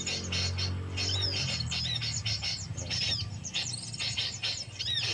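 Small birds chirping rapidly, many short calls and quick sweeps overlapping, over a low steady hum that is strongest in the first second or so.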